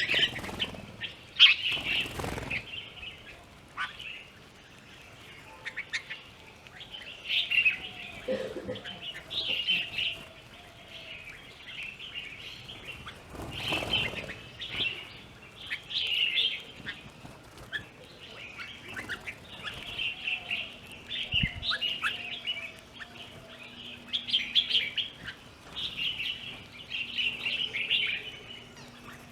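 Birds chirping and calling in short repeated bursts, with two brief rushes of noise, one near the start and one about halfway through.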